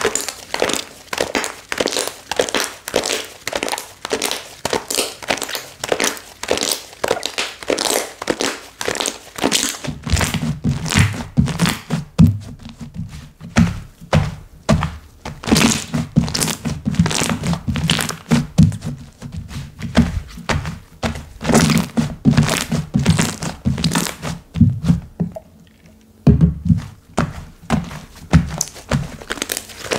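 Slime being squeezed, stretched and poked by hand: a rapid run of wet clicks and pops. From about ten seconds in, duller low thuds of pressing join them, with a brief pause near the end.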